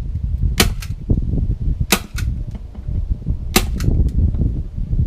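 Staple gun firing staples to fasten wire screen over vent holes in a wooden hive board: three sharp double snaps about a second and a half apart, the two snaps of each a quarter second apart, over a low rumbling noise.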